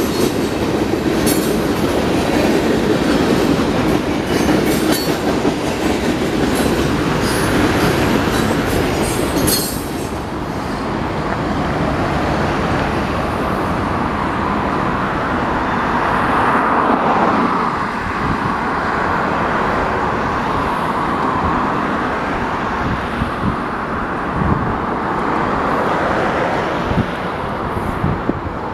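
Union Pacific freight train's cars rolling past, wheels clicking over the rail joints with sharp, repeated squeals; about a third of the way in the squeals stop as the last cars go by. After that a steady road-traffic rush remains.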